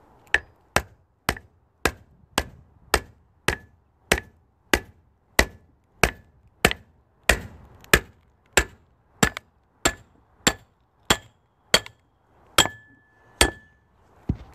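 Firewood being split by hand: a steady run of about twenty sharp strikes, a little under two a second, each with a brief metallic ring. Near the end one strike leaves a ringing tone that hangs for about a second.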